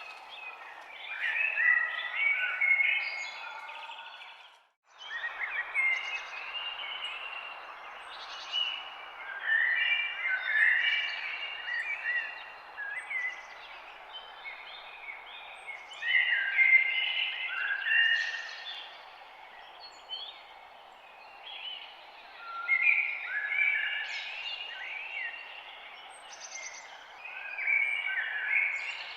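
Songbirds chirping and singing in repeated bouts of short phrases over a steady background hiss of forest ambience. The sound cuts out completely for a split second about five seconds in.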